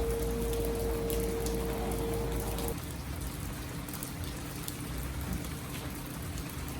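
Steady rain falling, with separate drops ticking on nearby surfaces. Under it a steady hum with a deep rumble stops suddenly about a third of the way in, leaving a fainter, lower hum that fades before the end.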